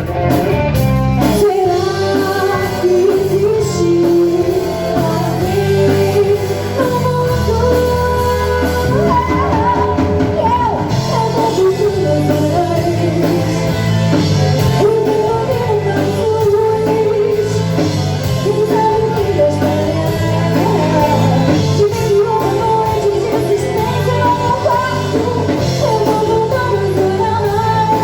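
Rock band playing live, with a lead singer over electric guitar, bass and drums.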